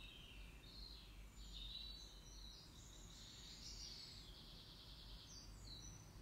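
Near silence: quiet room tone with faint, high bird chirps and song.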